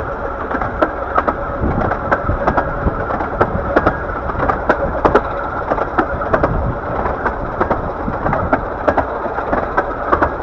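Riding carriage of a 15-inch gauge miniature railway train running along the line: a steady rumble with irregular clicks and knocks from the wheels and couplings, and a faint steady whine above it.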